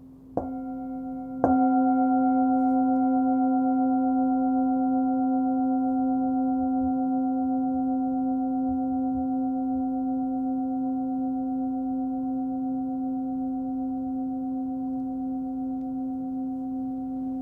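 A 16.3 cm hand-forged Nepalese singing bowl tuned to C (about 262 Hz), struck softly and then more firmly about a second later. It rings on with a clear fundamental and several overtones, fading slowly with a gentle wavering pulse.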